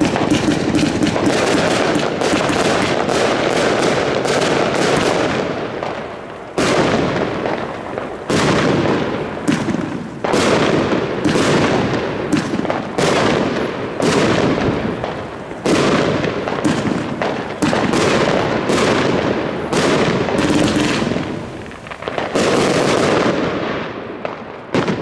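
A fireworks battery firing shot after shot: a dense, loud volley of launches and crackling bangs, several a second, with brief lulls about six, eight and twenty-two seconds in.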